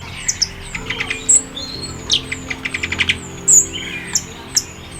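Many small birds chirping: short, sharp high notes throughout, with a quick run of repeated chirps in the middle, over a steady low hum.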